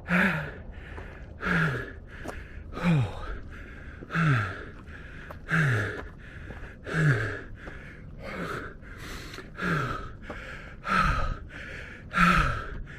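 A man panting hard from the exertion of climbing steep steps: about ten heavy breaths, one roughly every second and a half, each outbreath carrying a short hum of voice that falls in pitch.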